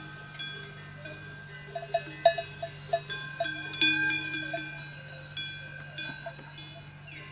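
Small metal bells clanking and ringing irregularly, each strike leaving a ringing tone, busiest in the middle, over a steady low hum.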